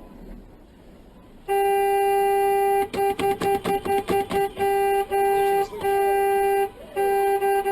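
Car horn honking: a long held blast starting about a second and a half in, then a quick string of short toots, then more long blasts, over faint road noise.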